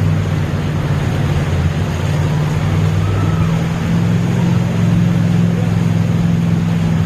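A vehicle engine running with a steady low drone under a constant wash of heavy rain and water noise.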